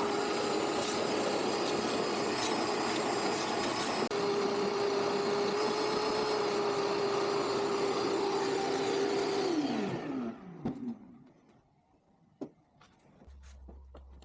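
Air-cooled flat-four engine of a 1969 Volkswagen Beetle running steadily with a held whine, then switched off about ten seconds in, its pitch sliding down as it winds to a stop. A few faint clicks and ticks follow.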